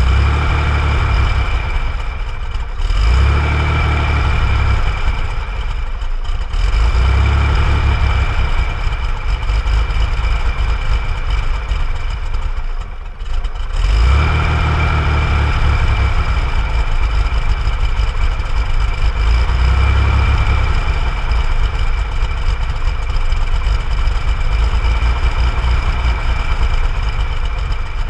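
1965 Chevrolet Corvair Corsa's air-cooled flat-six engine idling steadily, with a constant high whine and a low rumble that swells and eases every few seconds.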